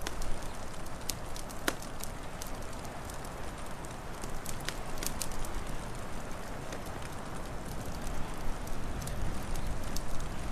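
Wood fire crackling, with scattered sharp pops over a steady rushing wind.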